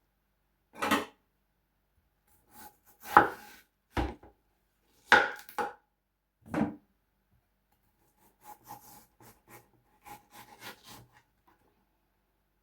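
Kitchen knife cutting through watermelon: about six separate strong cuts in the first seven seconds, then a run of quicker, quieter cuts.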